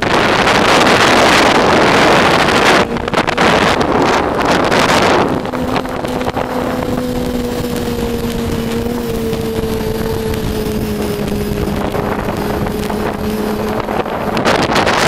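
Yamaha Attak snowmobile's four-stroke four-cylinder engine through an aftermarket Excell exhaust, under hard throttle for about five seconds. It then eases to a steady lower engine note that sags slightly in pitch and opens up again near the end. Wind buffets the microphone.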